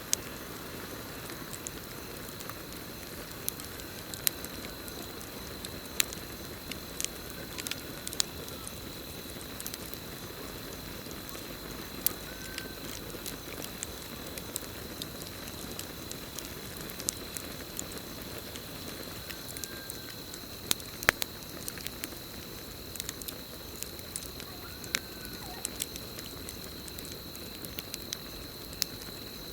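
Campfire crackling, with sharp pops at irregular times over a low steady hiss. A steady high cricket trill runs underneath, and faint short chirps come about five times.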